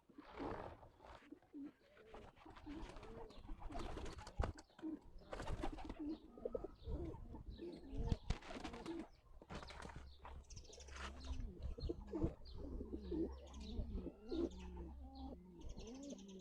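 Pigeons cooing in a flock, many short, low, rolling calls overlapping one after another, with scattered sharp clicks and rustles.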